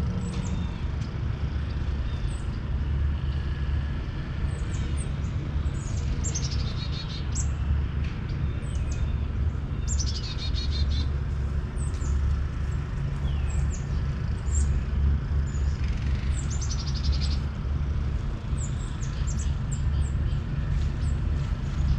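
Small songbirds chirping throughout, with three rapid descending trilled phrases, over a steady low rumble that is the loudest part.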